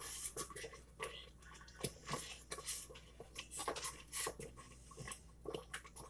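Chewing on a crunchy tortilla chip scoop with dip: short, irregular crisp crunches, several a second.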